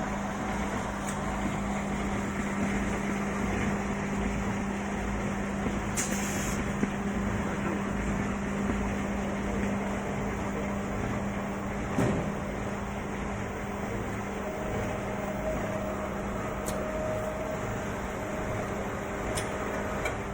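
Automatic air filter paper pleating machine line running: a steady machine drone with a constant hum. A short hiss comes about six seconds in, a knock comes about twelve seconds in, and a few light ticks are scattered through.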